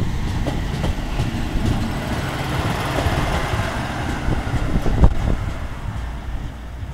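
Single-car diesel railcar passing close by: the rumble of engine and wheels swells to a peak about three seconds in and then fades as it pulls away. Wheels clack over rail joints several times, most loudly about five seconds in.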